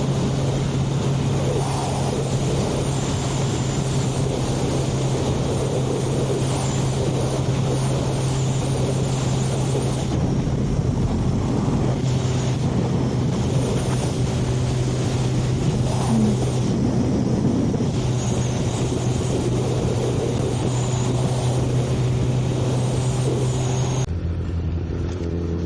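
Suzuki Hayabusa inline-four motorcycle engine at a steady highway cruise, with heavy wind rush over the rider's microphone. Near the end the engine note drops in pitch and the wind dies down as the bike slows.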